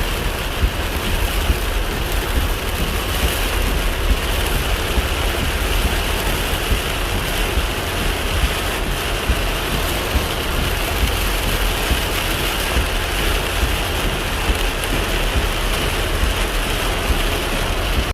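Heavy rain pouring down on a car, a dense steady hiss of drops with many small sharp hits, over a steady low rumble.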